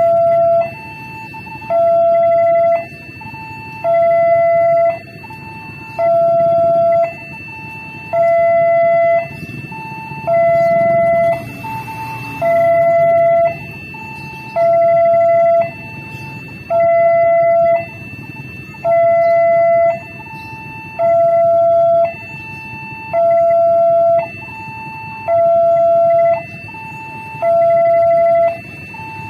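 Railway level-crossing warning alarm sounding in a steady two-tone cycle, a loud lower tone alternating with a softer higher one about once a second, which signals that a train is approaching and the barriers are down. A low traffic rumble runs underneath.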